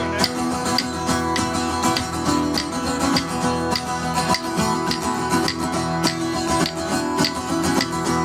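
A live band playing an instrumental break without vocals: strummed acoustic guitar over a steady beat of about two strokes a second.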